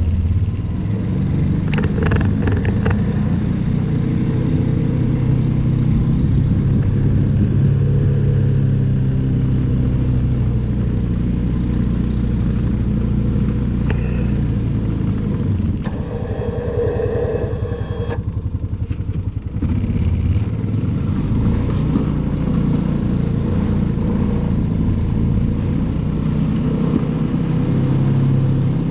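Engine running steadily, with a short change and a dip in loudness about two-thirds of the way through.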